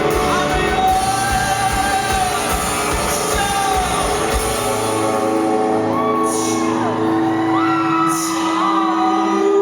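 Live band music in a large hall, with singing over a steady beat. The beat stops about halfway, leaving a held low note under gliding melody lines.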